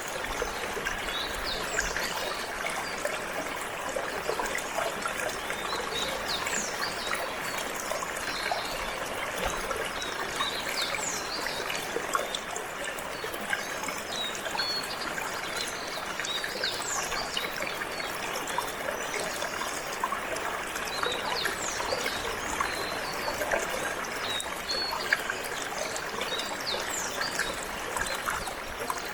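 Water trickling and flowing steadily, like a small stream, with short high chirps from canaries scattered throughout.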